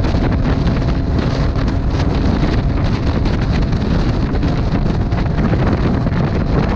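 Heavy wind noise buffeting the microphone of a camera on a moving motorcycle, with the bike's engine and road noise underneath; steady throughout.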